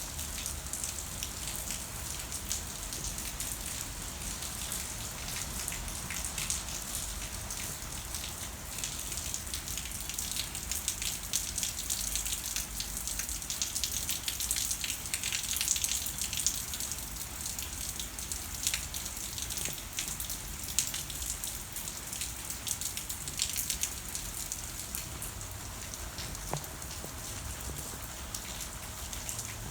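Steady rain falling, a continuous hiss with many small drops pattering on surfaces.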